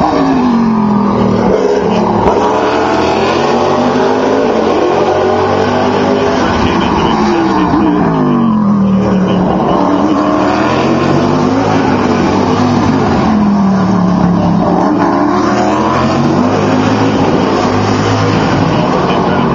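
Race cars braking and downshifting into a tight hairpin, engine pitch dropping, then accelerating away with rising pitch. Several cars follow one another, with the pitch falling three times.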